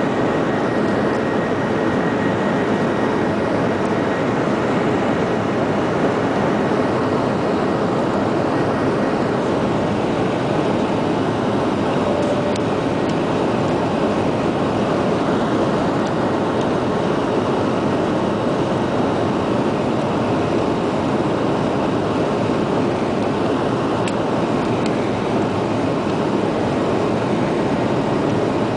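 Jet airliner cabin noise: the engines and rushing air heard from a passenger seat as a steady, even rumble.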